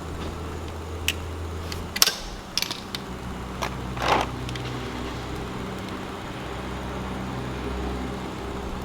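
Metallic clicks and taps of an Allen key working a bolt on a 2021 Yamaha YZ125's engine case, about five scattered strikes in the first four seconds, the sharpest about two seconds in, over a steady low hum.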